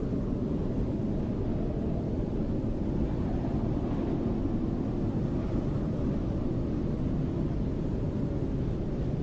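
Snowstorm wind blowing steadily, a low, deep rushing noise with no gusts or breaks.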